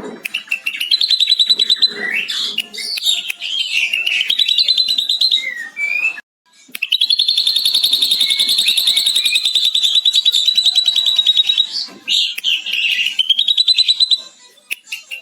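Ashy drongo singing a long, fast rattling chatter copied from a lovebird's 'ngekek', mixed with whistled notes, with a brief break about six seconds in.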